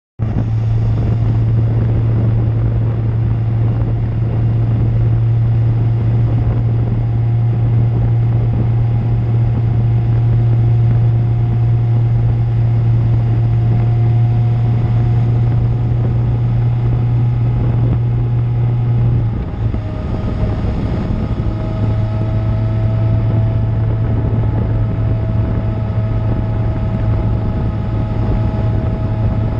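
A 2000 Suzuki GSX-R750's inline-four engine running steadily through an Akrapovic exhaust while the bike rides at a constant throttle. The engine note dips briefly about two-thirds of the way through, then carries on as before.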